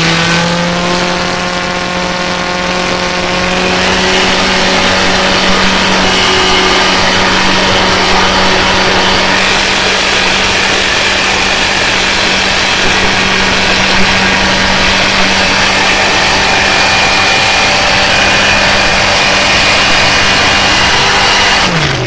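Honda CB1300 Super Bol d'Or's inline-four engine running through a Nojima Engineering exhaust. It is held at a steady raised rpm to heat-colour the freshly polished header pipes, and drops back down just before the end.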